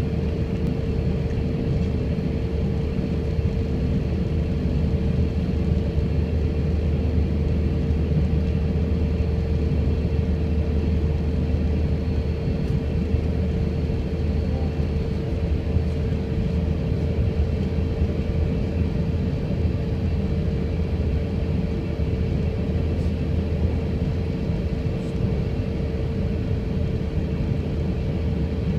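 Airliner cabin noise heard from inside the cabin in flight: a steady low rumble of engines and airflow, with a constant droning hum over it.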